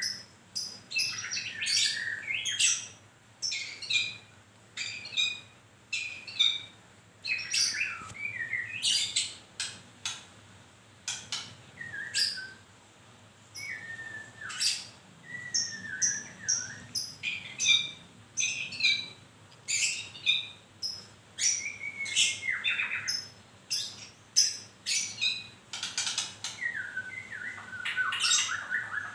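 A caged murai (Copsychus songbird) calling and singing: a steady run of short sharp chirps and clipped whistled notes, some sliding down in pitch, several each second with brief pauses between phrases.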